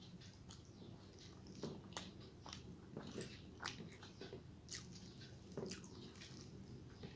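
Quiet, close-miked chewing of a mouthful of rice and egg curry, with soft wet mouth clicks and smacks at irregular intervals.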